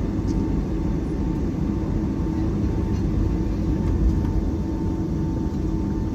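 Steady drone of a Boeing 757-300's jet engines and airflow heard from inside the cabin, with a faint steady high whine over it.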